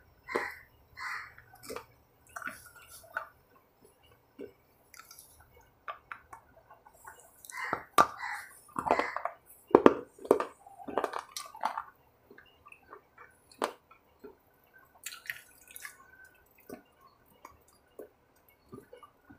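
Close-up eating sounds: wet chewing and lip smacks with scattered small clicks as a triangular snack bar is eaten, coming in irregular bursts with short quiet gaps. A brief rustle of the paper wrapper comes about two-thirds of the way through.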